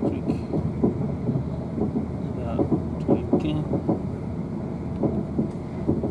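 Inside a South Western Railway Siemens Desiro electric multiple unit (Class 450/444) running at speed: a steady low rumble of wheels on the rails, with irregular knocks and rattles.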